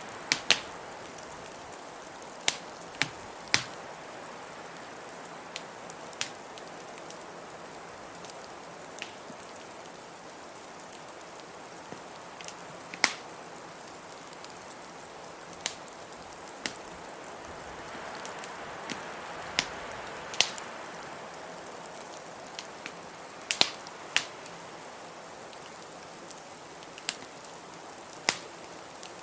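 Wood fire crackling, with sharp irregular pops every second or two, over a steady hiss of blizzard wind that swells briefly about two-thirds of the way through.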